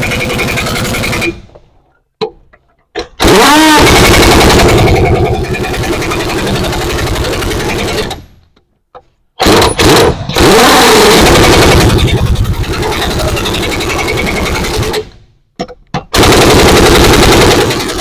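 Earthquake 1-inch-drive impact wrench hammering in long bursts of several seconds each, with a rapid, even rattle of blows. The bursts are broken by a few short pauses and quick trigger blips, running on power setting 2.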